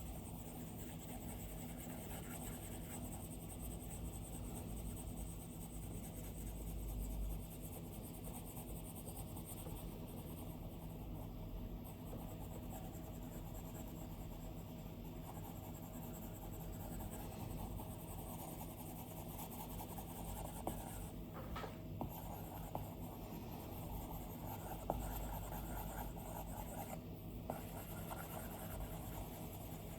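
Stylus drawing on an iPad's glass screen: continuous soft scratching strokes, with a few sharper taps in the second half.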